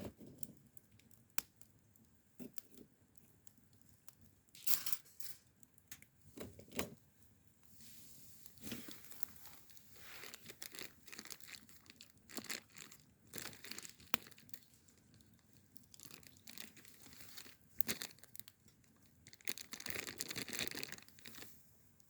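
Crinkling and tearing sounds with scattered sharp clicks, in stretches of a few seconds.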